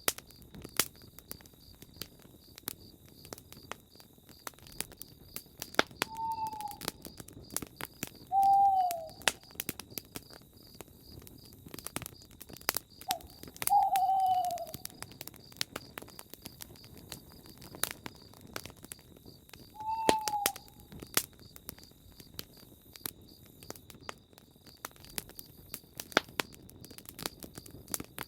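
Campfire crackling with many sharp, irregular pops. About five times a bird gives a short, slightly falling call, and a steady high-pitched pulsing trill runs underneath.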